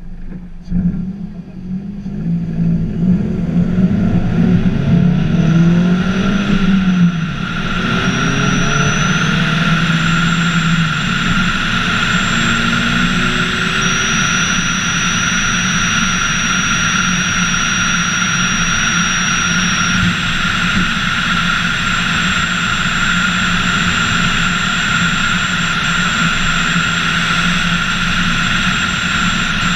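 Scion tC's four-cylinder engine accelerating, rising in pitch for a few seconds, then holding a steady cruise. A steady wind rush, with a thin high whistle, runs over the hood-mounted camera.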